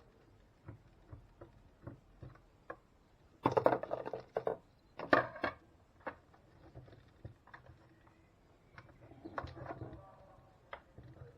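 Parts of a vacuum cleaner brush head being handled during disassembly: scattered light clicks and taps, with a louder burst of clattering knocks about four to five and a half seconds in.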